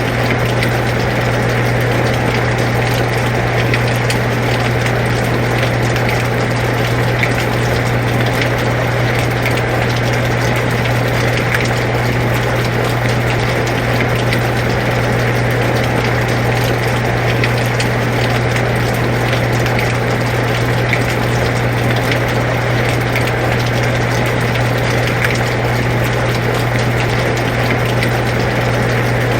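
Air conditioner running with a steady low hum, under the even hiss of rain falling, with scattered faint drop ticks.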